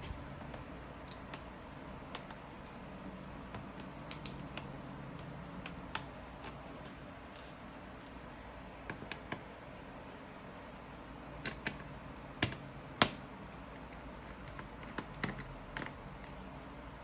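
Scattered light clicks and taps over a low steady room hum, with a loud sharp click about thirteen seconds in.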